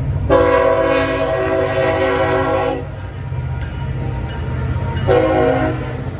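Locomotive air horn sounding a chord in one long blast of about two and a half seconds, then a shorter blast about five seconds in, over the steady low rumble of a train.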